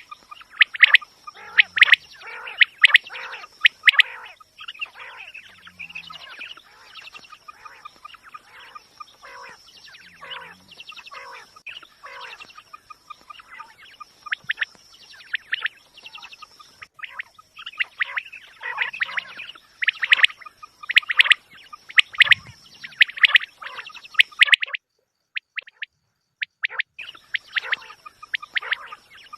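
Quail calling in quick, repeated chirps, a recorded call of the kind played to lure quail for hunting. The calls break off for a couple of seconds near the end, then start again.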